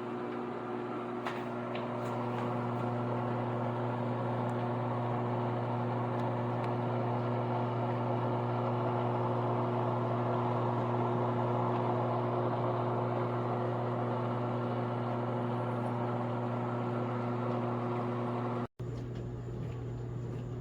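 COMFEE' portable countertop dishwasher running: a steady motor hum under an even rushing noise, broken once by a brief dropout near the end.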